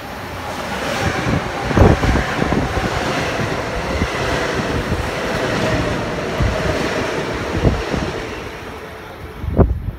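Electric passenger train passing close by: a loud rumble with a faint whine that builds over the first couple of seconds, holds, and fades near the end. Wind buffets the microphone in low thumps as it goes.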